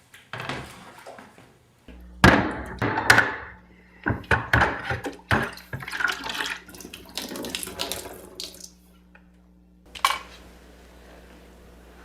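A tap running into a sink, with a steady hum from the moment it is turned on, and a run of clattering and splashing for several seconds. A single sharp knock comes near the end.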